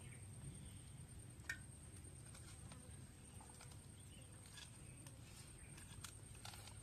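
Near silence with faint, scattered clicks and taps, and one sharper click about a second and a half in.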